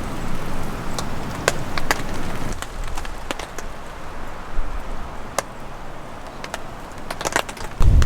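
Gusty wind rumbling on the microphone, dropping off for a few seconds mid-way and returning near the end, with scattered sharp taps of raindrops.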